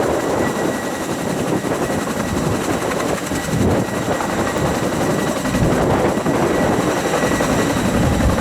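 Large firefighting helicopter's rotors and turbine engines running loud and steady, with a thin high whine over a dense rotor rumble. The rumble grows louder and deeper about five and a half seconds in.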